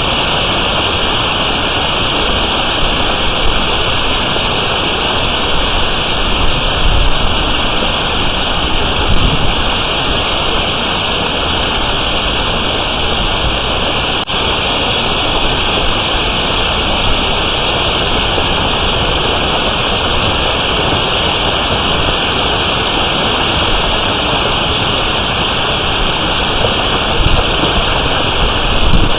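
A storm of nickel-sized hail and heavy rain coming down hard, a steady dense hiss, with low gusts of wind now and then.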